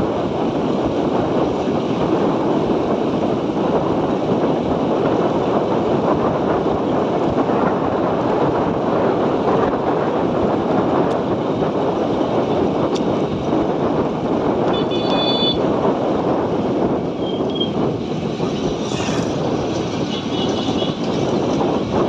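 Motorcycle riding: a steady rush of wind on the microphone with engine and road noise. A brief high tone sounds about two-thirds of the way in, and a few short high chirps come near the end.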